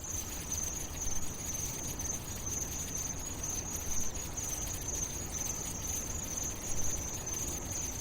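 Crickets chirping in a steady high trill over a low rumble.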